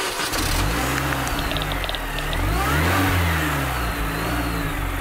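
A car engine running, revved once about two and a half seconds in, its pitch rising and then falling back.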